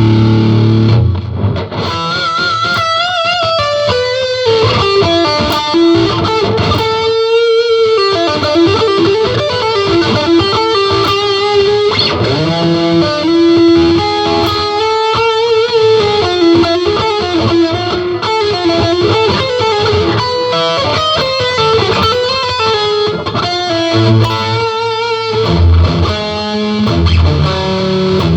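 Electric guitar through a Korg AX1000G multi-effects processor and Marshall amp, playing a distorted lead melody with pitch bends and wide vibrato on held notes.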